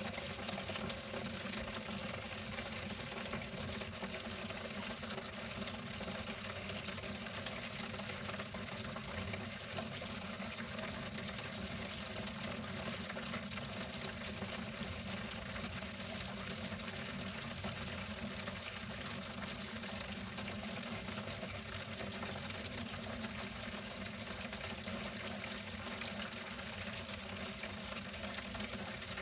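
Water flowing steadily, with a faint steady hum underneath.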